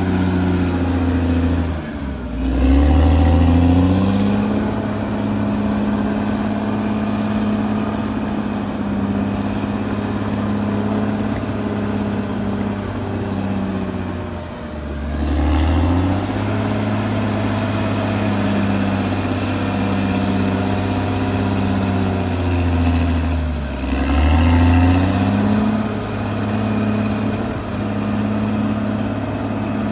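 Caterpillar D6R XL bulldozer's diesel engine running steadily at working speed, its note dipping sharply and picking back up three times: about 2 seconds in, midway, and near the end.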